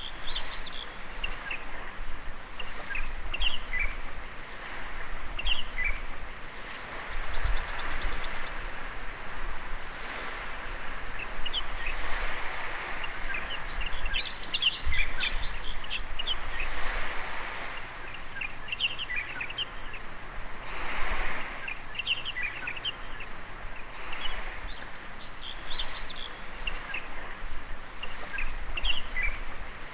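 Sea waves washing softly onto a beach, the wash swelling and fading every few seconds, with small birds chirping over it again and again and a quick trill about seven seconds in.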